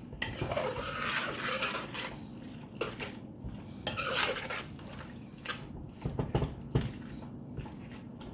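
A cooking utensil scraping and clacking against a pan while stirring chicken, vegetables and egg together, with many sharp knocks.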